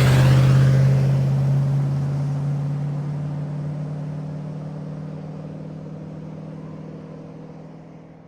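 Car engine running at a steady speed, its sound fading out gradually.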